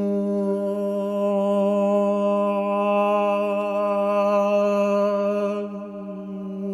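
A single deep male voice chanting one long held tone, steady in pitch and rich in overtones, which brighten in the middle of the note and ease off near the end.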